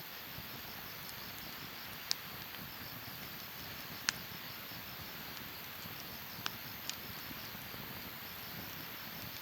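Wood fire burning in a Snow Peak fire pit: a steady soft hiss with four sharp crackling pops, the loudest about four seconds in. Insects chirp steadily in the background.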